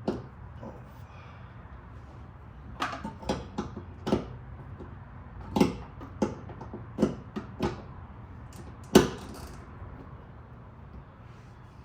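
Irregular sharp knocks and clanks of hand tools and parts being handled, about ten of them, the loudest near the end, over a low steady hum.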